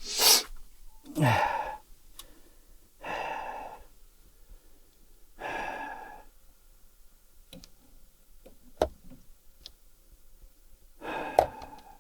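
A man's sighs and heavy breaths: about five separate exhales spread over several seconds, the second one voiced with a falling pitch. A few sharp clicks come in between.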